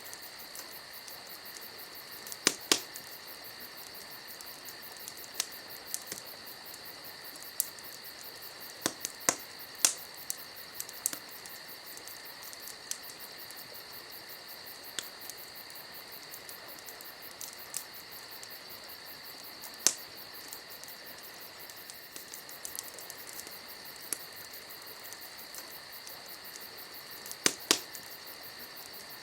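Crickets chirping steadily, with a campfire's sharp crackles and pops scattered irregularly over them; the loudest pops come in a pair a couple of seconds in and another pair near the end.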